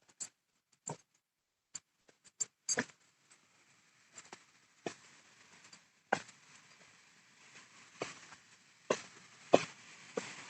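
Irregular short knocks and crunches, about one a second, over the faint steady rush of a waterfall that comes up about three seconds in.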